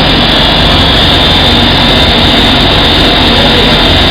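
Rice husk carbonization furnace machinery running: a loud, steady machine noise with a low hum and a constant high whine.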